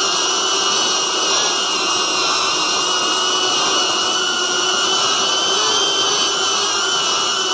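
Cinewhoop FPV drone's brushless motors and ducted propellers running, a steady high whine whose pitch wavers slightly as the throttle shifts.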